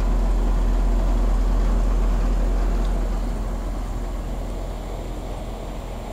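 York Stellar Plus 3.5-ton heat pump outdoor unit running in cooling mode: a steady hum of compressor and condenser fan with a strong low drone. It fades gradually over the last few seconds.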